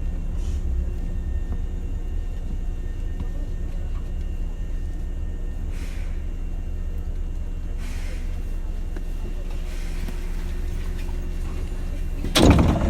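Inside a Hankyu 7000 series train pulling into its terminus: a steady low rumble and hum, with faint hisses every couple of seconds. A sudden loud burst of noise comes near the end.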